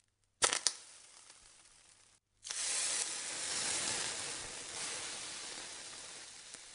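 Two sharp clicks, then after a brief silence a hiss like food sizzling in a hot pan starts suddenly and slowly fades.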